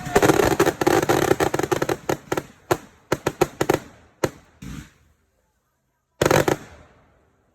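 Finale Velocity firework cake firing its finale: rapid bangs and crackling that thin out over the first four to five seconds. After a pause, one last loud burst comes about six seconds in and fades away.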